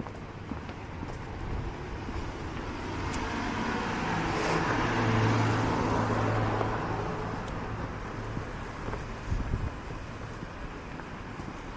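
A motor vehicle driving past. Its engine and tyre noise swell to a peak about five seconds in and then fade away.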